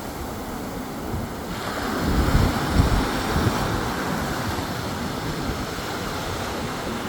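Sea surf washing onto a beach, with a wave surging in and breaking about two seconds in. Wind buffets the microphone.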